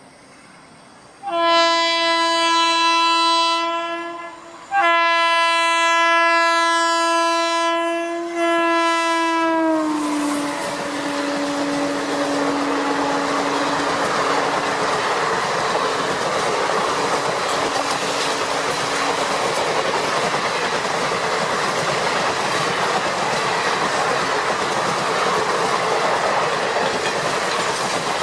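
Indian Railways locomotive horn sounding two blasts, a short one and then a longer one whose pitch drops near its end. The steady rush and clatter of the passing train's wheels on the rails follows.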